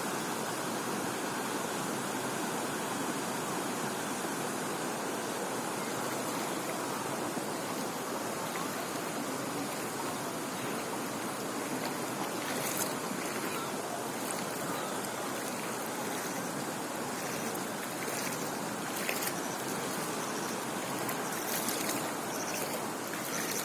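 Floodwater rushing in a steady, continuous wash of noise, with short crackles on top from about halfway through.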